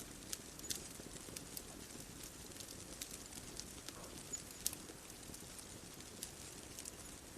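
Wood fire crackling: irregular sharp pops and snaps over a steady soft hiss, with one louder pop a little past halfway.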